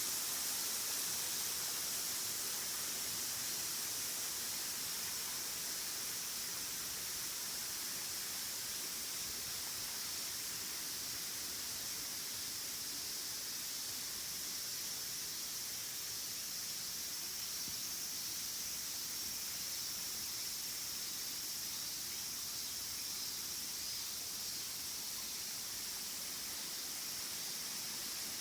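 Waterfall's falling water rushing as a steady, even hiss, light in the low range, with no other events.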